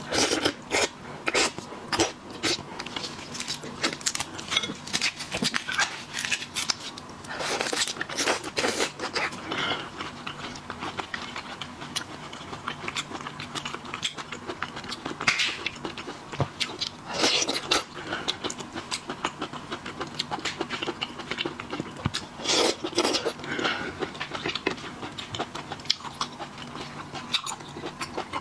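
Close-miked eating of seafood: wet chewing and smacking with many sharp clicks and crackles, and several longer slurping or sucking bursts.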